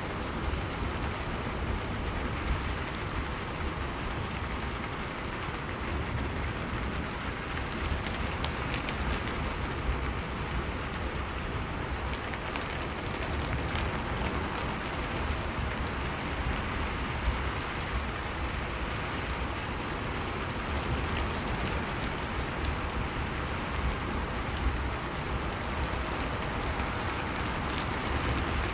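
Steady rain falling, a continuous hiss of drops with scattered small patters of drops striking a surface.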